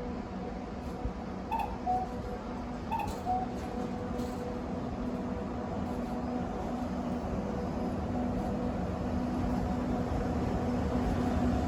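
Approaching train: a steady mechanical hum with a few steady tones that grows gradually louder. Two short falling chirps come close together about two and three seconds in.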